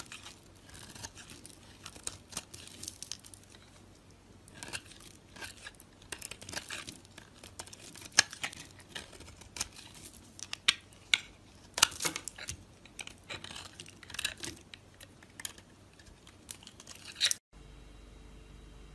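A knife cutting and carving a bar of soap: crisp, irregular crackles and scraping strokes, some louder snaps among them. Near the end it stops abruptly and gives way to a steady low hum.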